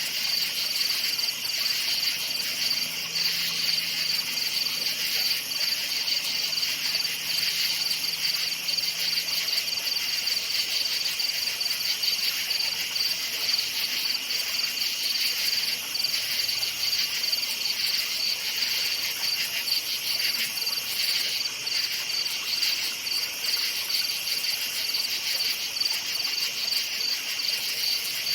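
A night chorus of crickets chirping steadily in a dense, continuous trill. A faint low hum sounds in the first third.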